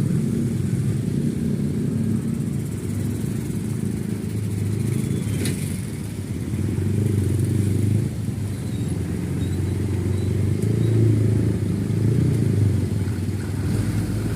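Steady low rumble of motor vehicles running, rising and falling a little, with a single sharp click about five and a half seconds in.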